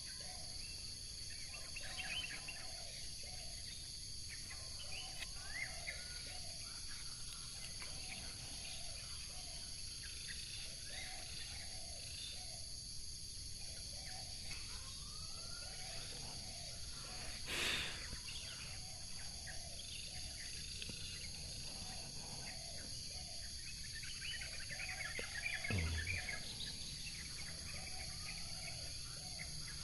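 Plantation ambience: insects buzzing steadily at a high pitch while wild birds chirp and call again and again. One brief, sharper noise comes a little past halfway, and a short low sound follows near the end.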